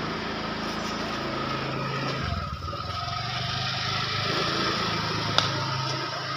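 A small engine running steadily, with one sharp click about five and a half seconds in.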